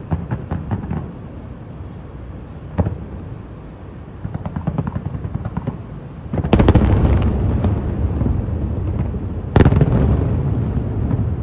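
Aerial fireworks shells bursting: scattered sharp pops and a quick run of crackles, then two loud heavy booms about three seconds apart, each with a long echoing tail.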